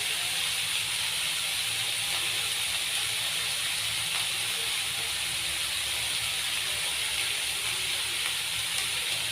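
Minced chicken frying in hot oil in a pan, a steady sizzle.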